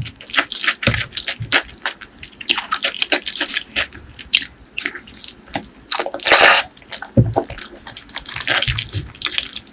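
Close-miked wet mouth sounds of eating spicy pork leg curry with rice: quick sticky smacks and clicks of chewing, with a louder half-second rush of noise about six seconds in.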